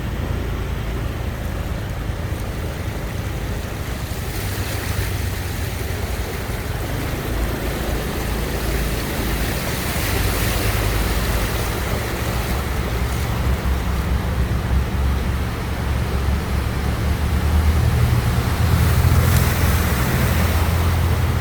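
Storm wind buffeting the microphone: a steady rushing noise with a heavy low rumble that swells in gusts around the middle and again near the end.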